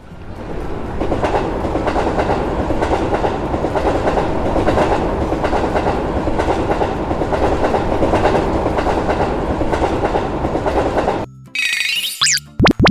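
Train passing: a steady rumble with wheels clattering over the rails, swelling in over the first second and cutting off abruptly about eleven seconds in. A short cartoon boing-like sound effect follows near the end.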